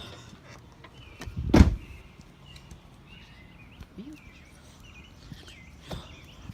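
A car door shut with a single loud thump, followed by small birds chirping in short repeated notes.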